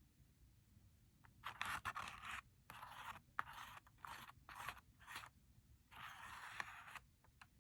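Slime being worked by hand, making a string of short, sticky, noisy bursts. There are about seven of them, and the last is the longest, about a second.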